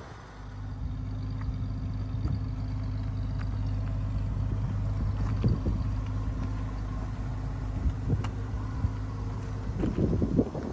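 1976 Chevrolet Blazer's engine running at a steady, even speed, a low hum. Near the end, wind buffeting on the microphone.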